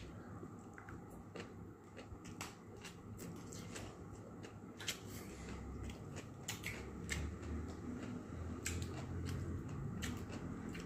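Close-up eating sounds: chewing with many quick sharp clicks, smacks and crunches from the mouth, scattered irregularly throughout.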